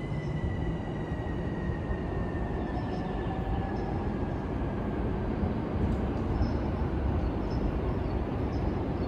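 A green-and-orange JR E231-series electric commuter train pulls out and moves away. It gives a steady rumble of wheels on rail, with a faint whine that slowly falls in pitch.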